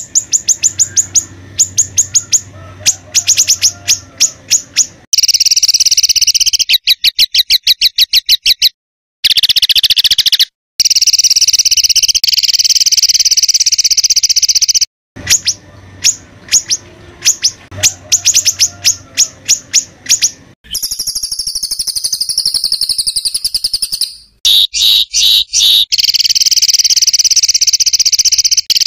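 Songbird singing harsh 'tembakan kasar' song: fast volleys of sharp clicking notes and long buzzing trills, with some wavering whistled notes near the end. The recording cuts off abruptly several times, and the same passage repeats about halfway through.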